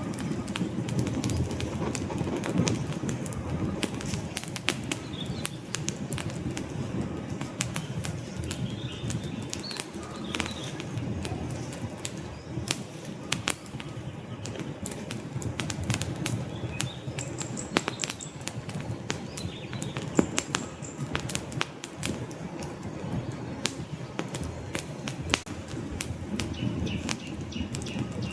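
Wood fire burning in a fireplace: a steady low rush of flames with frequent sharp crackles and pops from the logs, a couple of them louder past the middle.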